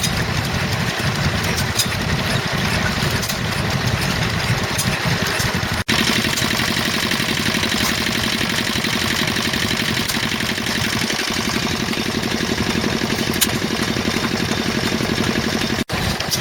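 Vintage stationary engines running steadily, the sound cutting abruptly from one engine to another about six seconds in and again near the end; the middle stretch has an even, rapid firing beat.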